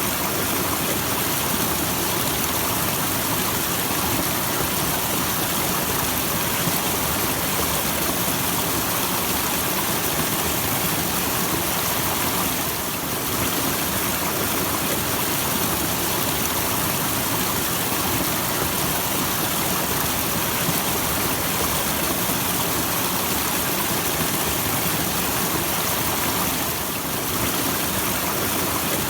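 Small natural waterfall with steady rushing, splashing water, dipping slightly twice for a moment.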